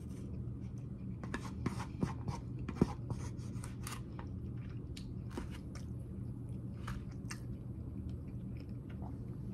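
Close-up eating sounds: a person chewing food, with scattered small clicks, crunches and scrapes from the plastic bowl, most of them in the first half, over a steady low hum.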